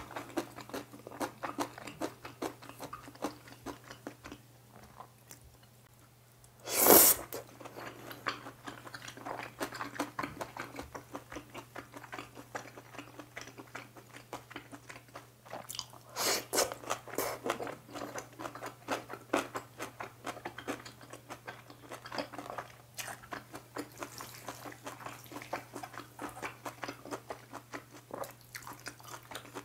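Close-miked chewing and wet mouth sounds of a person eating black-bean noodles, beef and crunchy kimchi, as many quick clicks and crunches. A loud burst comes about seven seconds in and a run of louder bursts around sixteen seconds.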